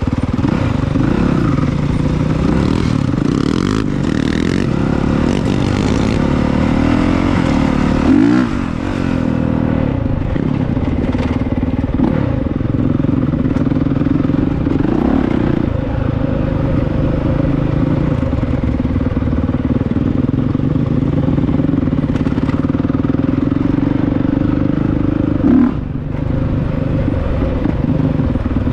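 Honda CRF450R dirt bike's single-cylinder four-stroke engine running hard while riding, revving up and down over and over, with brief louder bursts of throttle about eight seconds in and near the end.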